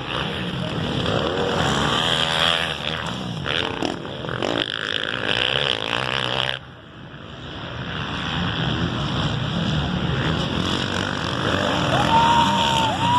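Several 450cc four-stroke motocross bike engines revving hard and racing past, rising and falling in pitch. The sound drops off suddenly about halfway through, then builds back up as more bikes approach, with one engine revving up high near the end.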